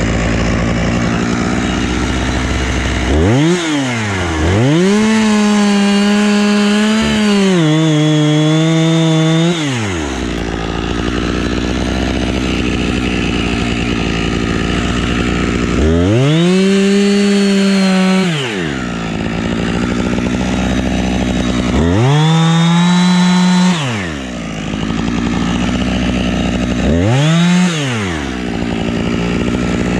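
Husqvarna chainsaw idling, opened up to full throttle in a brief blip and then in several runs of two to five seconds, with the pitch sagging under load during the longest run as it cuts wood.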